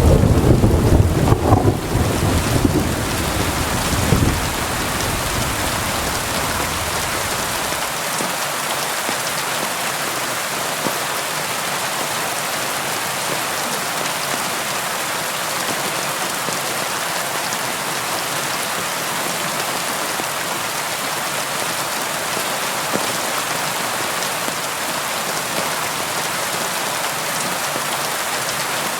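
Steady rainfall hiss, with a rumble of thunder in the first few seconds that dies away by about four seconds in.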